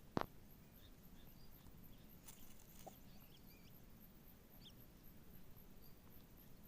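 Near-quiet background with a few faint, short high chirps from birds scattered through it. A single sharp knock just after the start is the loudest sound.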